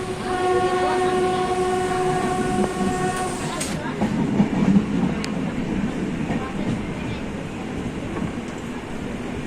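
Train horn sounding one long steady blast of about three seconds over the running rumble of a moving train, which goes on after the horn stops.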